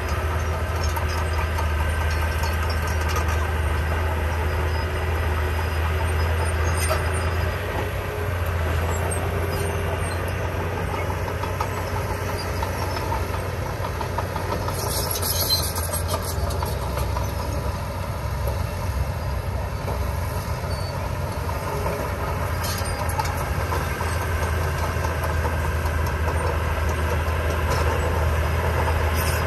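Diesel engine of heavy earthmoving equipment running steadily with a deep, constant hum. A brief high hissing noise comes about halfway through.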